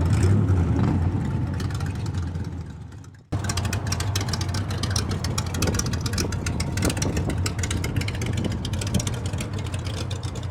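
A car engine running with a steady low rumble that fades out and cuts off about three seconds in. After the cut, an engine runs with a fast, dense ticking rattle.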